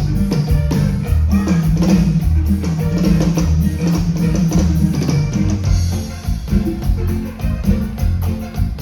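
A live cumbia band playing: a drum kit keeping a steady beat over a moving bass line, with guitar.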